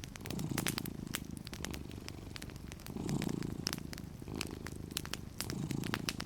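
Cat purring steadily in slow swelling cycles, about one every two and a half seconds, the loudest sound. A fireplace fire crackles over it with scattered small sharp pops.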